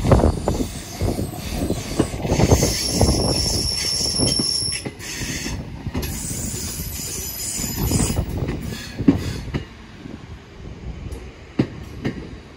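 ScotRail Class 318 electric multiple unit running slowly into the terminus platform, its wheels knocking over the rail joints. A high-pitched squeal comes in about two seconds in and lasts to about eight seconds. The train grows quieter near the end.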